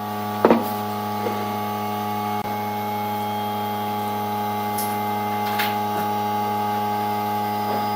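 Woodturning lathe's electric motor running with a steady hum, with a sharp knock about half a second in and a few lighter clicks later.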